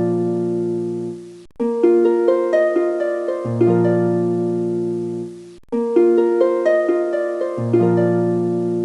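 Background music of plucked, harp-like notes: a short phrase that loops about every four seconds, dipping briefly each time it restarts.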